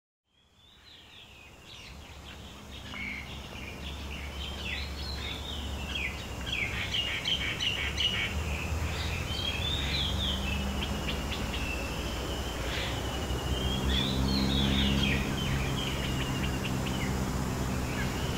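Several birds chirping and trilling over a steady low hum, fading in from silence at the start.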